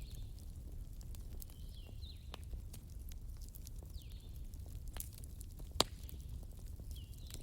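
Wood fire burning in a fireplace: a low steady rumble of flame with scattered crackles and one loud pop a little before the end. Faint high chirping glides recur every second or two behind the crackle.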